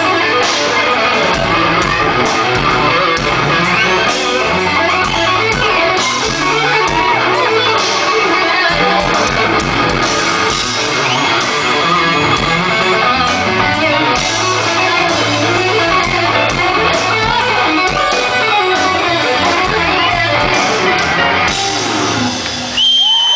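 Rock band playing live, electric guitars loud with bending, gliding notes over bass and drums. Near the end the song stops and the crowd starts cheering.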